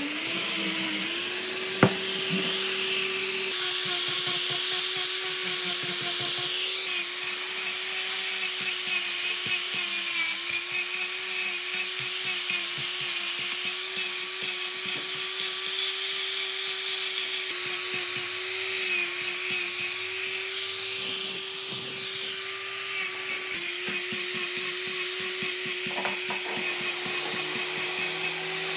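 Electric power tool running steadily with a constant motor whine while cutting or abrading wood, with a hissing rasp of the tool on the wood; a single sharp click about two seconds in.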